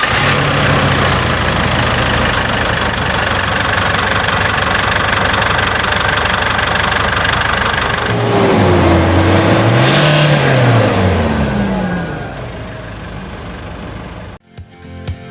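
Nissan Navara's diesel engine running loud and steady, then revved once about nine seconds in, its pitch rising and falling back, before cutting off near the end.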